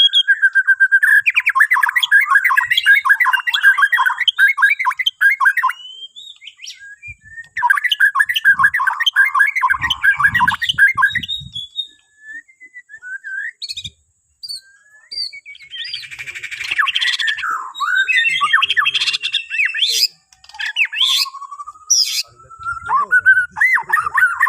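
Borneo white-rumped shama (murai batu) singing: long stretches of rapid, varied song with short pauses between them.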